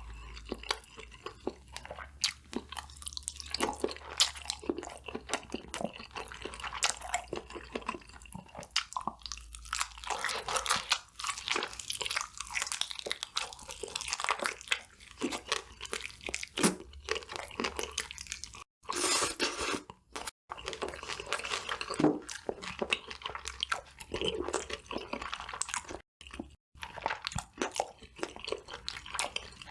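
Close-miked chewing of crispy fried food, with dense, irregular crunches and crackles, cut off briefly a few times.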